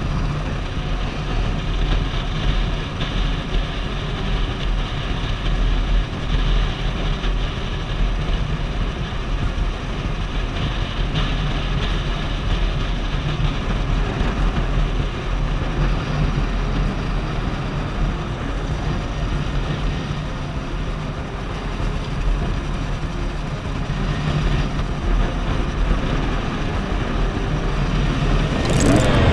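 Motorcycle riding along a road: steady engine and wind noise.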